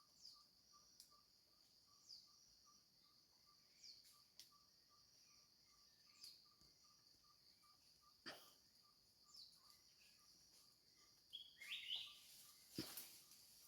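Faint forest ambience: a steady high insect drone with a pulsing chirp about three times a second, and short falling bird calls every couple of seconds. A louder bird chirp comes near the end, and two sharp snaps or clicks sound about two thirds of the way through and shortly before the end.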